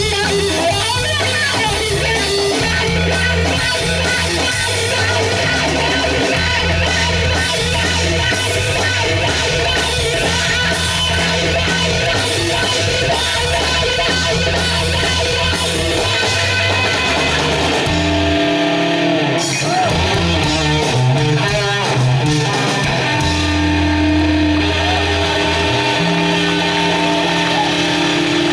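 Loud rock band playing, electric guitars and bass guitar over a heavy beat. About two-thirds of the way through, the low bass drops out for a few seconds, then returns under a long held guitar note.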